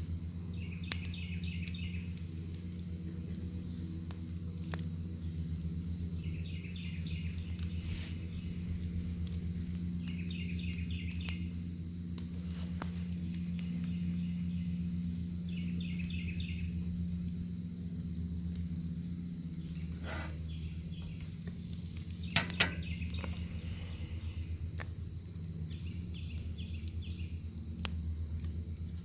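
Bacon sizzling over a crackling fire: a steady hiss with occasional sharp pops, the loudest a quick pair about two-thirds of the way through. An insect trills in short bursts every few seconds in the background.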